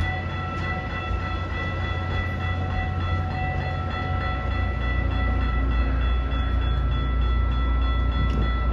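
Diesel-hauled passenger train running by: a steady heavy rumble that grows stronger about four seconds in, with a steady whining tone above it.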